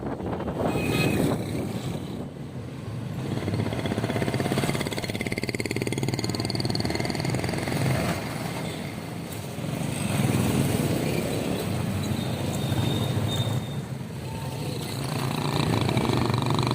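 Motor vehicle traffic, engines running and passing, with their sound swelling and fading every few seconds.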